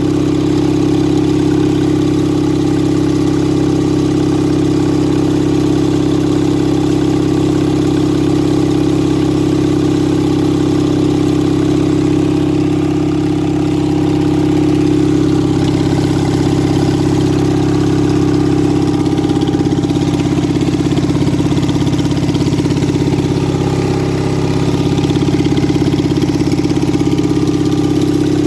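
1971 Gravely 450 tractor's 16.5 hp engine running steadily at idle and just over idle, freshly fitted with a rebuilt carburettor and new manifold gaskets.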